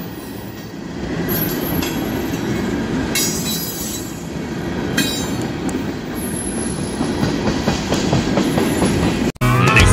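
Slow CSX mixed freight train rolling past: a steady low rumble of wagons on the rails, with a few sharp wheel clicks and a thin, high wheel squeal now and then. Near the end it cuts off suddenly into country-style music.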